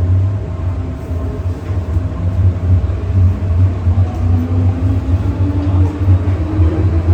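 MTR M-Train electric multiple unit pulling away from a station, heard on board: a loud low rumble starts suddenly, and a traction motor whine rises slowly in pitch as the train gathers speed.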